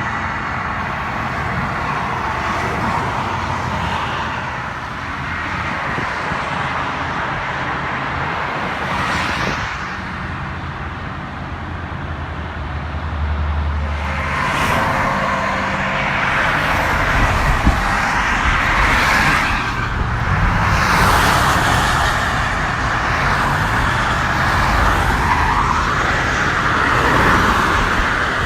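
Interstate traffic passing close by: a continuous noise of tyres and engines that swells and fades as vehicles go past one after another, louder in the second half.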